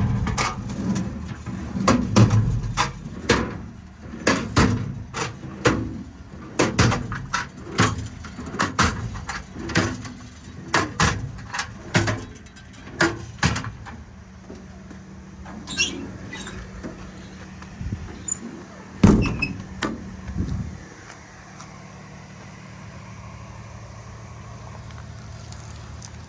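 Metal drawers in a truck service body being pulled open and pushed shut, with a quick run of clacks and knocks from the twist-lock latches and slides. Later come a few scattered clicks and one loud bang as a drawer or compartment is shut.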